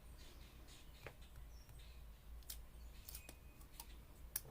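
Faint handling of paper and washi tape on a craft table: a few scattered soft clicks and taps, the sharpest near the end, over a low steady room hum.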